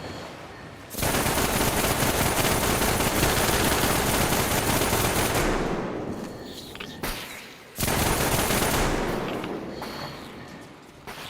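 Toyota 4A inline-four engine run up hard twice, each time a harsh, rapid crackling rattle that comes in suddenly and dies away over a few seconds.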